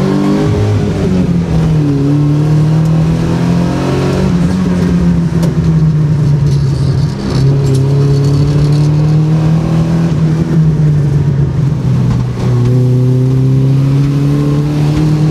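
Subaru Impreza's EJ20 flat-four engine, with a full stainless exhaust, pulling the car along, heard from inside the stripped cabin. The engine note rises and falls in the first few seconds, then holds steady, with two brief drops about seven and twelve seconds in.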